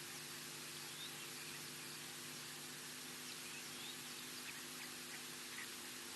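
Faint, scattered short bird chirps over a steady outdoor hiss and a low, even electrical hum.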